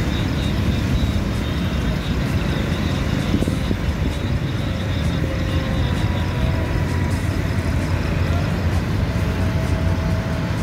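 Approaching diesel-hauled train: a steady low rumble of the locomotive and its wheels on the track.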